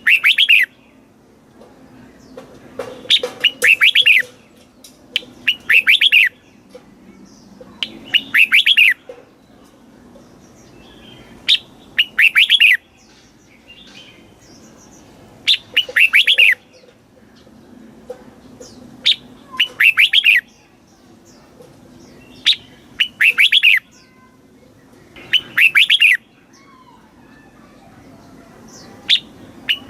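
Red-whiskered bulbul singing: short warbled phrases repeated about every three seconds, with quiet gaps between them.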